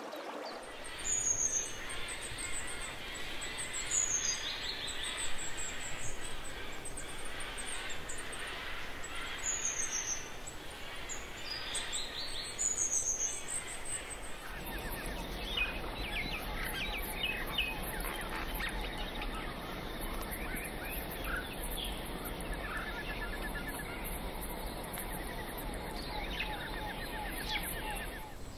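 Wild birds chirping: short high chirps and quick falling whistles over a steady wash of noise. About halfway through the background changes to a denser natural ambience of rapid trills and ticks with a low rumble.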